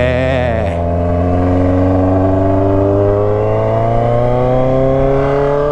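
Kawasaki Z900RS inline-four engine through a stainless-steel 4-into-1 header and slim straight-through 'canela seca' end pipe, pulling in gear with its pitch rising slowly and steadily. There is a brief wavering in the note at the very start.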